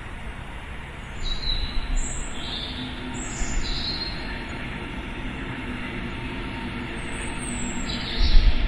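Birds calling with short, high chirps every second or so over a steady rumble of city noise, which swells near the end.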